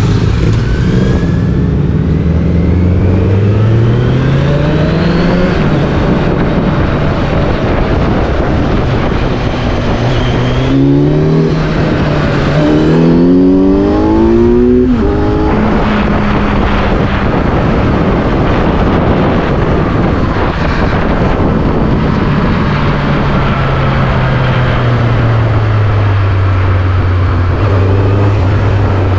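A road vehicle's engine pulling away with its pitch rising, then accelerating through several quick upshifts, each a short rising climb, and slowing with a long falling pitch near the end, over steady road noise, heard from the moving vehicle.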